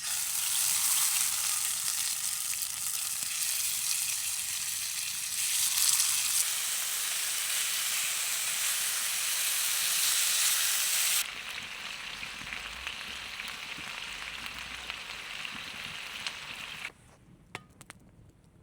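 Chicken wings sizzling as they cook over a campfire: a dense, loud hiss that changes level abruptly three times as the shots cut, dropping to a faint hiss with a few sharp clicks near the end.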